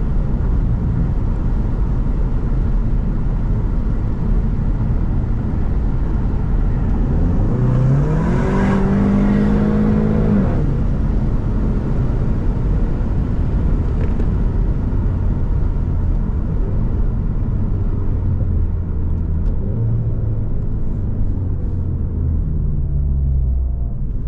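Car engine accelerating under the driver's foot, its pitch climbing for a second or two about seven seconds in, holding, then dropping away, with two smaller swells later. Steady road rumble and wind buffeting on the microphone run underneath.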